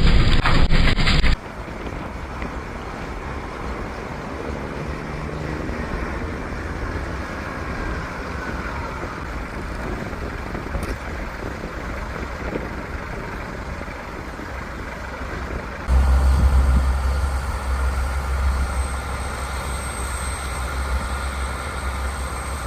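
Heavy vehicle engines running steadily. The sound drops abruptly to a quieter, even running noise just after the start, then cuts back to a louder, deep rumble about two-thirds of the way through.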